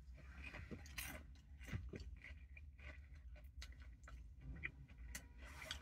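Faint chewing and crunching of a fried chicken wing, in irregular soft crunches, over a steady low hum.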